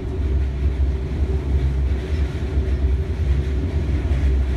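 Electric commuter train running between stations, heard from inside the passenger car: a steady low rumble of the wheels and running gear.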